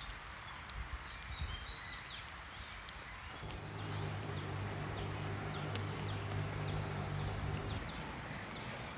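Outdoor rural ambience with scattered short high chirps and clicks. A steady low hum comes in about three and a half seconds in and fades out near eight seconds.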